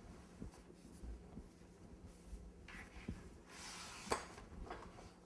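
Faint rubbing and scraping of fondant being handled and smoothed, with light taps of tools on the work surface and one sharper click about four seconds in.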